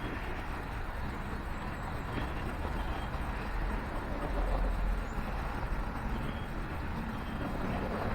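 Steady low rumble of distant city traffic, even throughout with no single event standing out.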